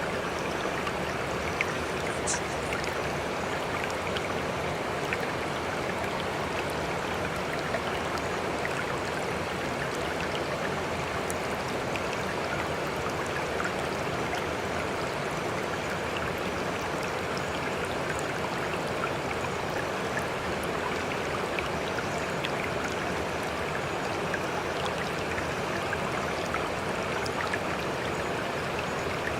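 Water rushing and trickling at a steady level, sprinkled with small droplet splashes, with no swell and fall of breaking waves.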